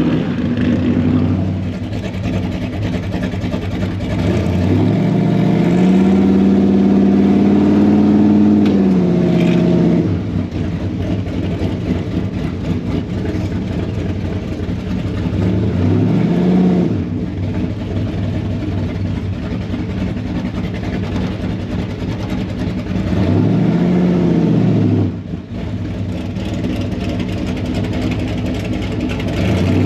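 Classic car engine idling and being revved: the pitch rises and is held high for several seconds, drops back to idle, then comes two short blips of the throttle, and it rises again at the very end.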